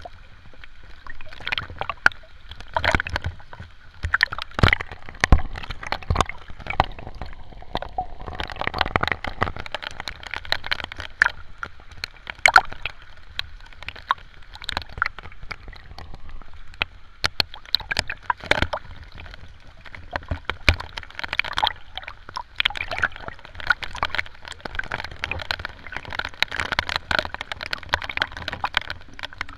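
Sea water splashing and gurgling close to the microphone, with many sharp, irregular taps and plops.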